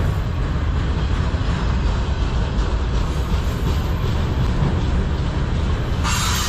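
Freight train autorack cars rolling steadily past at close range: a continuous low rumble of wheels on rail. Near the end a loud, high hissing noise sets in over the rumble.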